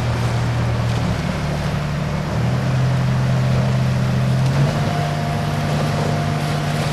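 Heavy diesel engine of a large tracked excavator running under load, its engine note stepping up twice as the revs rise. A faint high whine joins in after about five seconds.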